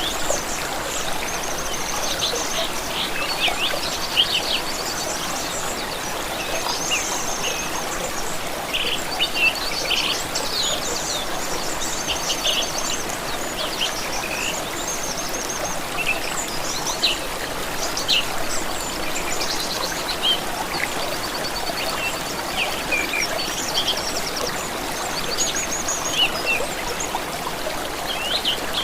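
Steady flowing water of a stream, with several small birds singing over it in short chirps and quick trills, some in fast repeated notes.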